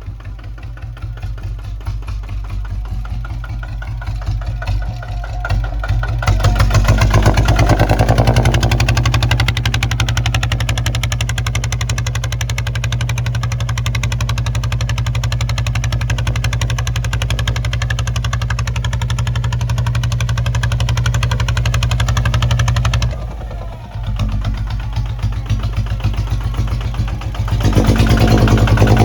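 Kubota ZT155 single-cylinder diesel engine running with a steady rapid beat. It picks up about six seconds in, dips briefly with about five seconds left, then picks up again near the end.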